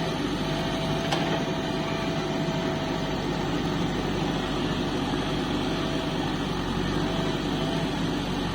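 Heavy diesel engine running steadily under load, with a thin steady whine over it that breaks off now and then.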